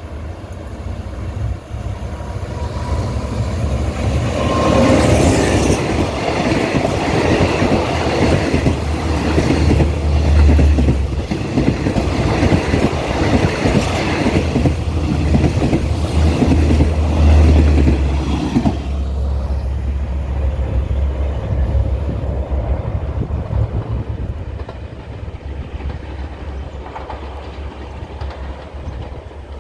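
Diesel-hauled express passenger train passing close by: a low engine hum and the coaches' wheels clattering rapidly over the rails. It grows loud after a few seconds, stays loud for about fifteen seconds, then drops off quickly as the train goes by.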